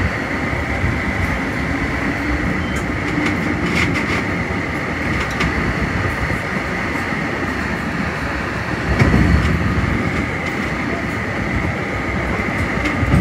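Metra commuter train running along the track, heard inside the cab car: a steady rumble of wheels on rail with a steady high hum and scattered sharp clicks. A louder low surge comes about nine seconds in.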